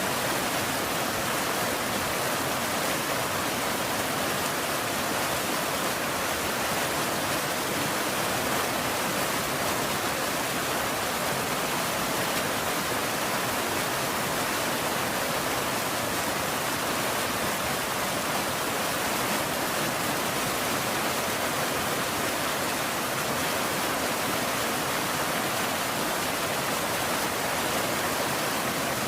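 Steady rain falling: an even, unbroken hiss with no single drops or gusts standing out.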